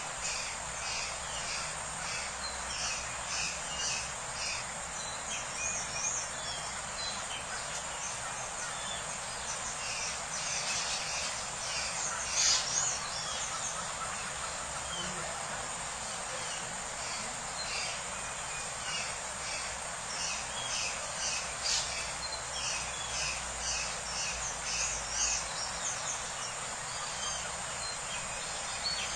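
Birds chirping: many short, quickly repeated calls over a steady background hiss, busiest about twelve seconds in and again in the last third.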